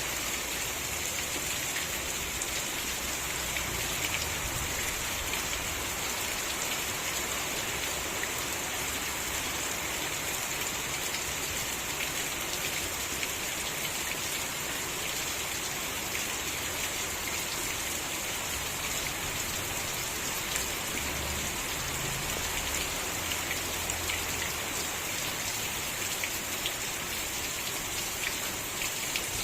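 Steady rain falling, a dense even hiss with fine patter of drops hitting a surface.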